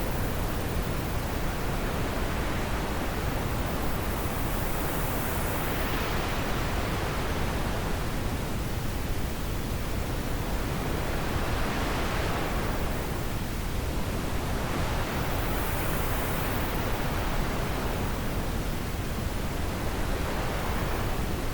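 Wind blowing in a steady rush that swells and eases in slow gusts every few seconds.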